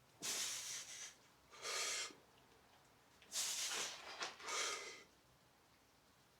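A person breathing hard from exertion: several short, forceful breaths in quick succession, then quiet for the last second or so.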